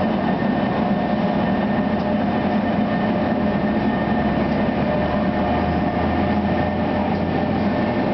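NJ Transit ALP-46 electric locomotive hauling double-deck MultiLevel passenger coaches past as the train departs. It gives a steady hum with a few held tones over the constant rumble of wheels on the rails.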